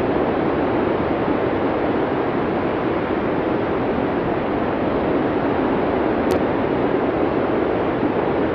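Steady blizzard wind: an even rushing noise that holds at one level without gusts.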